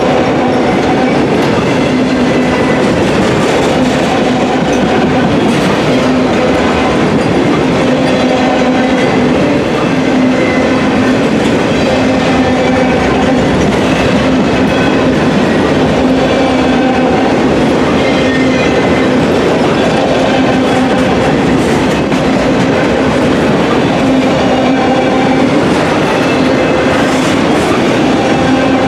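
Freight train of autorack cars rolling past: a steady loud rumble and clatter of steel wheels on the rails, with a humming tone that comes and goes.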